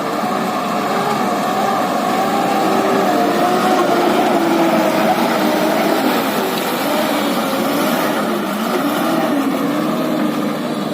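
JCB backhoe loader's diesel engine working under load, its pitch wavering up and down as the hydraulics are worked, with a rise and fall near the end.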